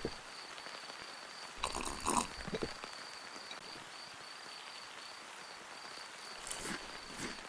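Eating sounds: two short bursts of chewing and mouth noise, about two seconds in and again near the end, over a faint steady high whine.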